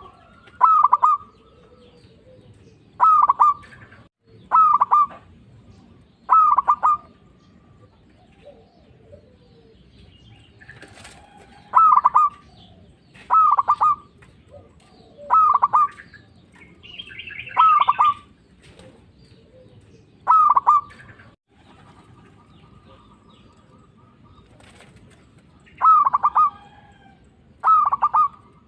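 Zebra dove (perkutut) singing: short, rhythmic cooing phrases repeated every second or two, in runs broken by pauses of a few seconds. This is the steady full song that keepers call gacor, used as a lure call to make other perkutut answer. A brief, higher chirp from another bird comes about midway.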